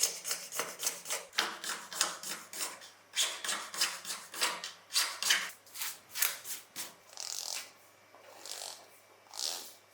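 Hand abrasion of a small part with sandpaper or a file: quick, scratchy back-and-forth rubbing strokes, then about three slower, longer strokes near the end.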